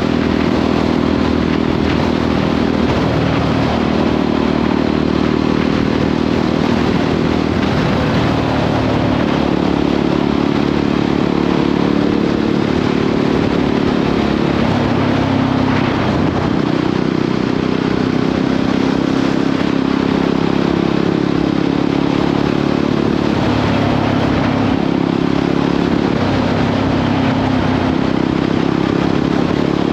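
Jawa 42 motorcycle's single-cylinder engine running steadily under way on the highway, its pitch shifting a few times as the throttle and speed change, with wind and road noise.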